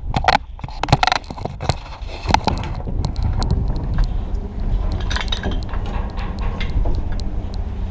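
Strong wind buffeting the camera microphone in a steady low rumble, with a string of sharp knocks and clinks in the first few seconds and a few lighter ticks later.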